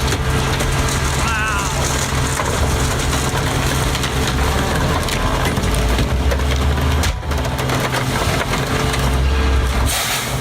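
A car being crushed by heavy machinery: metal crunching and creaking over the steady hum of a large diesel engine.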